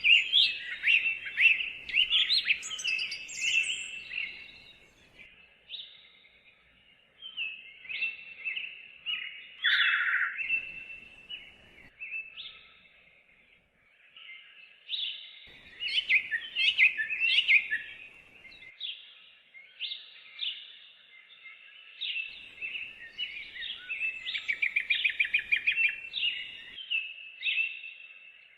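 Songbirds singing in rapid, overlapping chirps and trills, a few short lulls between bursts of song.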